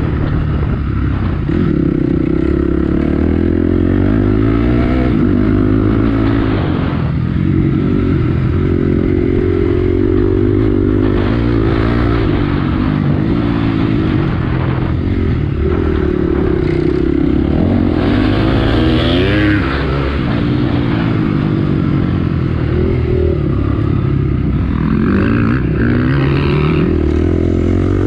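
Honda CRF250X enduro bike's single-cylinder four-stroke engine, heard from on board, revving up and down again and again as it is ridden hard around a dirt motocross track.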